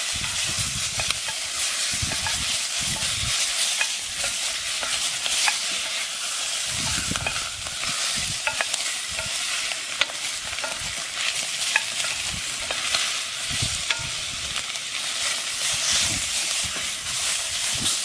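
Sheep tails and onions sizzling in hot oil in a cast iron pot as they brown, with a wooden spoon stirring and scraping them around the pot in irregular knocks.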